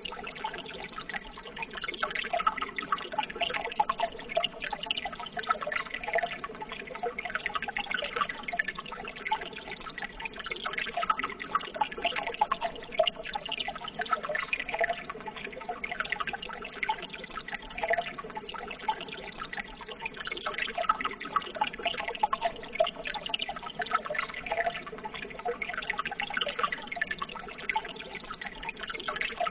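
Flowing water running steadily, a continuous trickle and burble with many small splashes.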